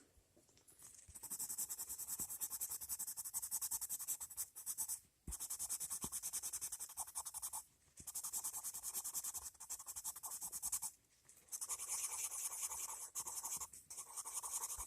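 Coloured pencil shading on paper: quick back-and-forth scratching strokes in runs of a few seconds, with brief pauses between them.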